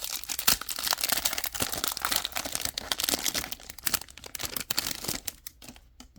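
Foil wrapper of a Pokémon 151 booster pack crinkling as it is torn open, a dense run of crackles that thins out about five seconds in.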